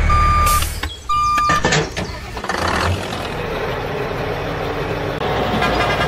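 Truck reversing alarm beeping at one steady pitch, two half-second beeps about a second apart, over a low engine rumble. Then a few sharp knocks and a steady mechanical noise.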